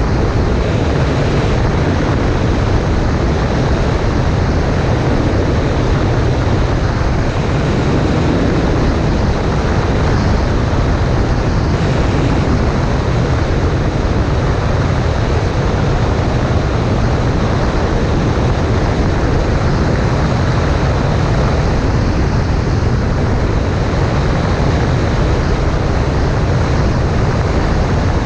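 Cessna 140A in flight: a steady, unchanging drone of the engine and propeller mixed with a rush of airflow, heaviest in the low rumble.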